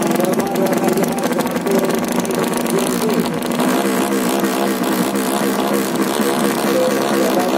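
Racing underbone motorcycle engines running and being revved, their pitch wavering up and down.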